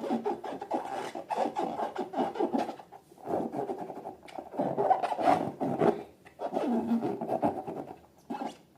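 Slime being squished and worked by hand: crackly, sticky rubbing noise in three long bursts with short pauses between them.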